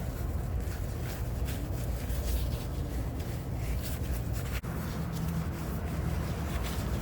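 Rubbing and scratchy handling noises as a wet fiberglass repair wrap is pulled and pressed around an exhaust pipe, over a steady low rumble. The sound drops out very briefly a little past halfway.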